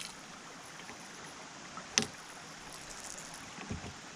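Faint steady wash of creek water, broken by one sharp knock about two seconds in and a softer thud near the end.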